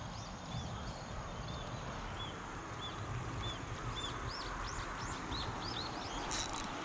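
Small birds calling: a run of short, high, arched chirps, about two a second, coming faster near the end, over a steady low rumble.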